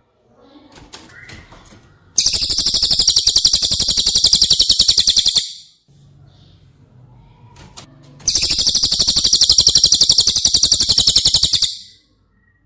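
Cililin song: two long, very rapid high trills of about three seconds each, the first starting about two seconds in and the second about eight seconds in, with faint scattered chirps before and between them.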